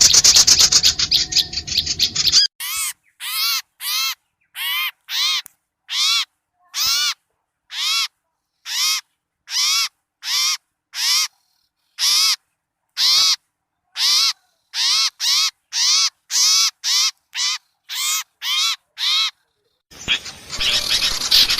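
Bird lure recording of small birds calling. A burst of rapid chattering gives way to a long run of short, harsh calls, each rising and falling in pitch and repeated about twice a second with silence between. A dense, noisy chattering chorus returns near the end.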